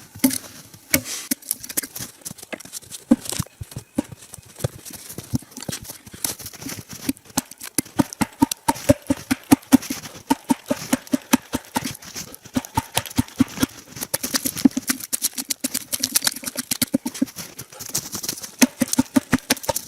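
Axe chopping into a log with a long run of quick, even strokes, hewing a groove along it.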